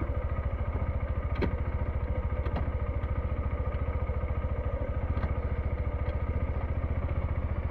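SYM NH-T 200 motorcycle's single-cylinder engine running steadily at low revs, an even pulsing beat, with a few faint clicks over it.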